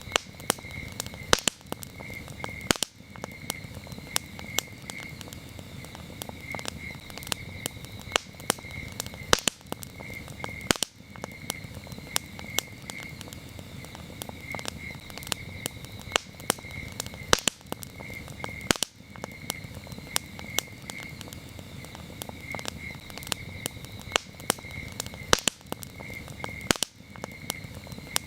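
Wood campfire crackling, with frequent sharp irregular pops and snaps, while crickets chirp in a steady pulsing trill.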